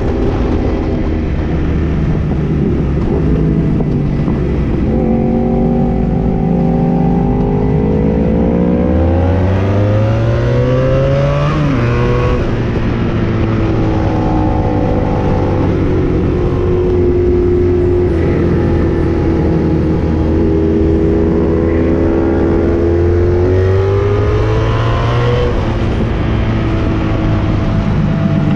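1984 Honda Magna V65's V4 engine running through a Kerker 4-into-1 exhaust while under way. It winds up in pitch about a third of the way in, drops sharply at a gear change, then climbs again later on.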